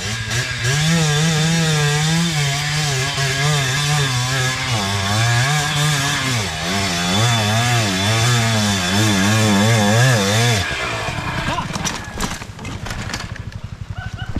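Two-stroke dirt bike engine revving hard, its pitch rising and falling with the throttle on the trail, then cutting out abruptly about ten and a half seconds in.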